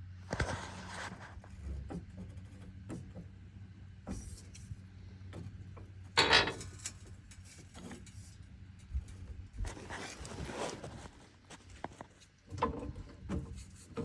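Intermittent scraping, rustling and clicking of tools and equipment being handled during car work, over a steady low hum.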